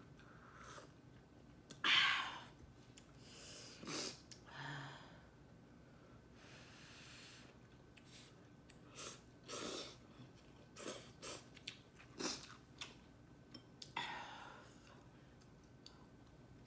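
A person eating instant noodles close to the microphone: a series of short slurps and chewing noises, the loudest about two seconds in and a longer one near the end.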